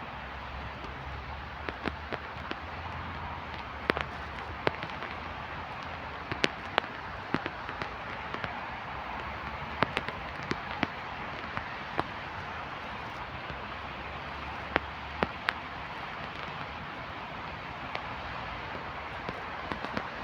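Steady hiss of rain, with irregular sharp taps of drops striking something close by, and a low rumble that stops about three-quarters of the way through.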